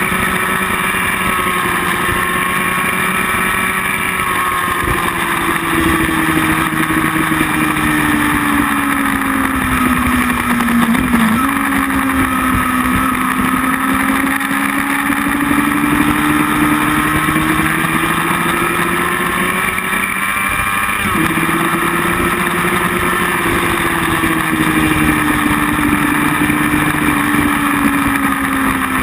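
Motorcycle engine on board at track speed, over steady wind rush. The engine note sinks and climbs slowly through the corners, with abrupt shifts in pitch about eleven and twenty-one seconds in, the second a sharp jump up like a downshift.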